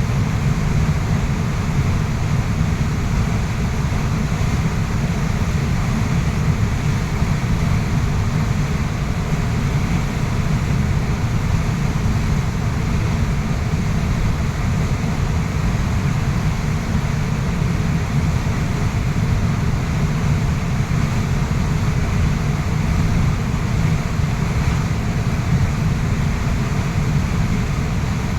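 Waterfall rushing steadily: a constant roar of falling water, heaviest in the low rumble with a hiss above it.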